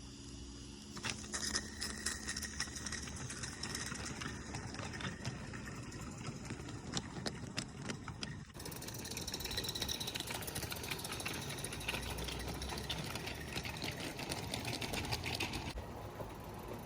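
Mamod Mk III live steam locomotive running with its rail cars on 32 mm gauge garden track: a steady steam hiss with rapid, irregular clicking from the wheels and motion.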